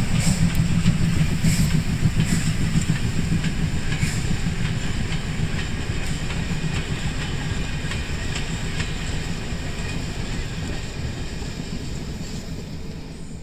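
Historic train rolling past on the track: a steady low rumble with wheels clicking over rail joints, the clicks thinning out after a few seconds and the whole sound slowly fading as the train moves away.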